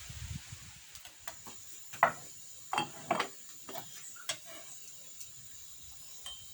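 A few sharp knocks and clinks at irregular intervals, the loudest about two seconds in, over a steady high thin tone.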